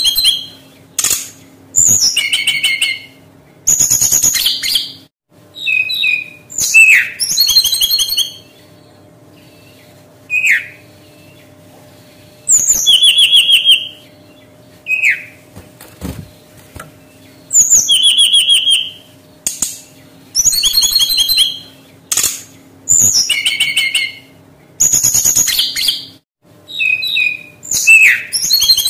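Brown-chested jungle flycatcher singing: short, high phrases of fast trills and sweeping whistles, each about a second long, repeated every one to three seconds with brief pauses between.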